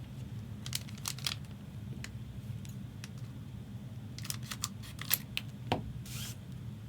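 Trading cards being handled: a few quick clusters of light clicks and taps of card stock, and a short sliding swish near the end, over a low steady hum.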